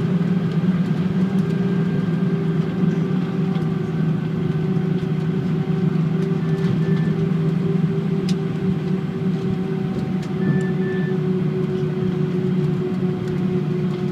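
Airbus A319 cabin noise while taxiing: a steady hum from its IAE V2500 engines and air conditioning, with a faint whine slowly falling in pitch. A few faint short high double beeps sound about halfway through and near the end.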